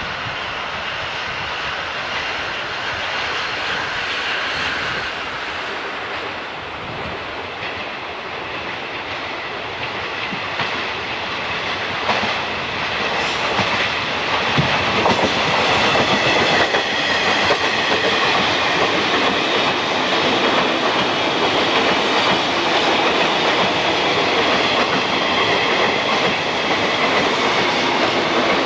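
Train passing on the Tohoku Main Line, its wheels clattering over the rail joints; the sound grows louder about twelve seconds in and stays loud, with a steady high ringing over the clatter.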